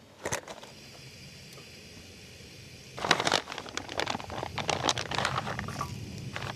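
Plastic food packaging being cut open and handled: a run of sharp crinkling and crackling from about three seconds in, over a faint steady low hum.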